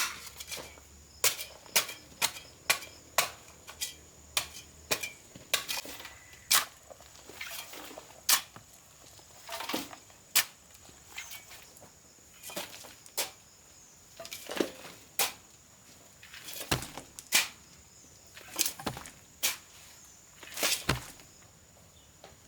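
Repeated sharp knocks at uneven intervals, about one or two a second, some much louder than others, over a faint steady high-pitched whine.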